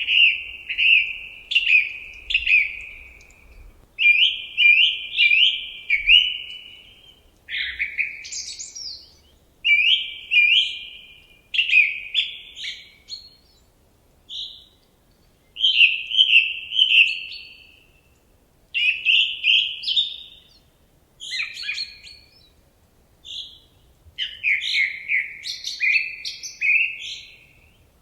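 A songbird singing a run of short phrases of quick chirping notes, one phrase every two seconds or so, with brief pauses in between.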